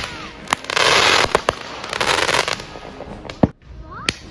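Consumer fireworks going off: several sharp bangs, with two stretches of crackling hiss in the first half and a few faint whistling glides.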